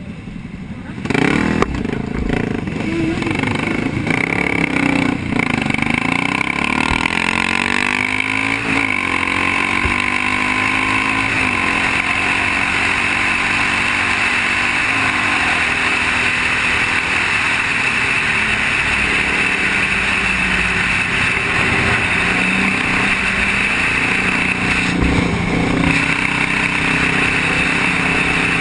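Motorcycle engines on the move, rising and falling in pitch as they rev and change gear, over a steady rushing noise of wind and road. The sound gets louder about a second in.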